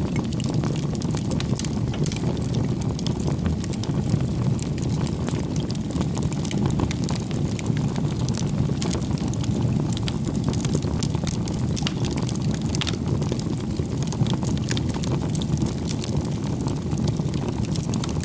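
Wood bonfire burning: a steady low rush of flame with frequent small, sharp crackles and pops.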